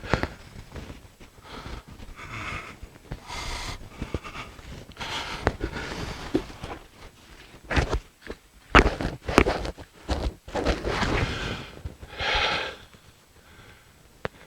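Footsteps crunching through snow, with heavy breathing between the steps.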